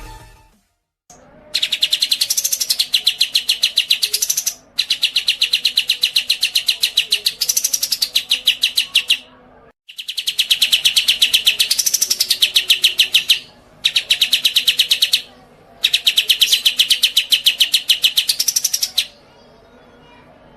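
A caged songbird singing long, rapid, even trills of about a dozen high notes a second, in five bouts of one to four and a half seconds with short breaks between.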